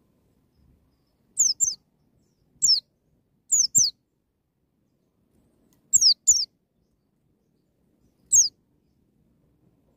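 Pleci (white-eye) giving short, sharp, high notes that each slide quickly downward, mostly in quick pairs, about eight notes in all: the wild 'ngalas nembak' call style.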